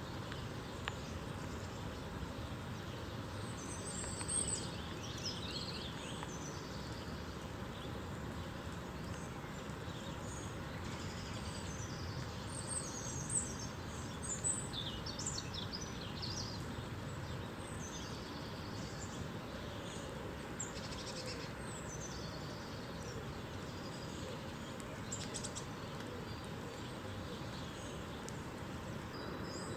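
Steady rain hiss with small songbirds chirping over it in scattered bursts of high calls.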